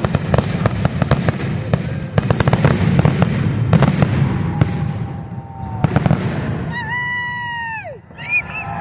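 Fireworks display: a rapid barrage of crackling bangs and pops for about six seconds. Then comes a long high tone that holds steady and drops sharply in pitch near the end.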